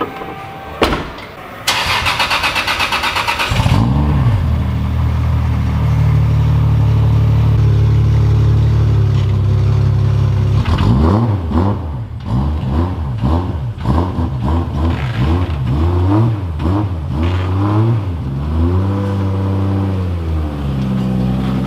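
A thud, then a Toyota Supra's engine cranks on the starter for about two seconds, catches and settles to a steady idle. From about halfway it is blipped again and again in short revs, then rises once more and holds steady near the end.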